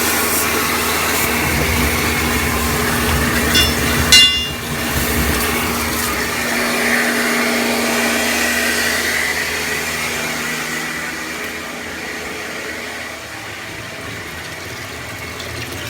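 A small motor-driven machine running steadily, with a sharp clack about four seconds in; it eases off in the last few seconds.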